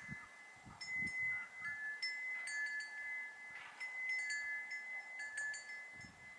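Metal wind chimes ringing: repeated strikes at two close high pitches that ring on and overlap, with a few faint low thumps underneath.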